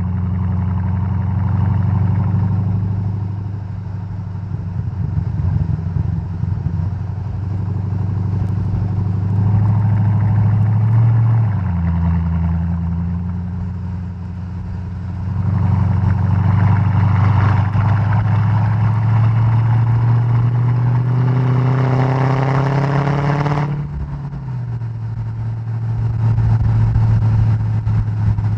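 Mercedes-Benz E 55 AMG W211's supercharged 5.4-litre V8 exhaust while driving, steady low running that shifts pitch with gear changes. Near the end it revs up under acceleration and cuts off sharply, then settles back to a lower steady note.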